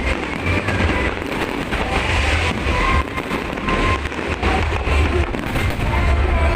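Fireworks display: shells bursting and crackling almost without a break, with music playing alongside.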